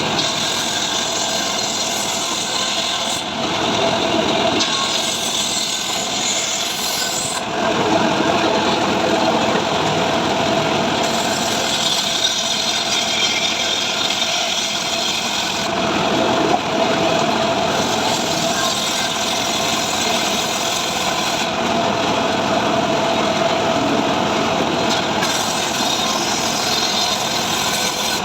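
Engine-driven saw running and cutting dry mahogany, its sound brightening and dulling every few seconds as it goes into and out of the wood.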